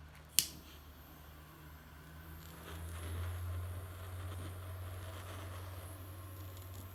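A single sharp click about half a second in, then from about three seconds a small gas torch burning with a steady hiss while it heats the seized piston and rod.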